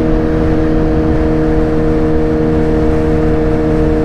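Motorcycle engine running at a steady cruising speed, its note holding one pitch, over rushing wind and road noise on the rider's microphone.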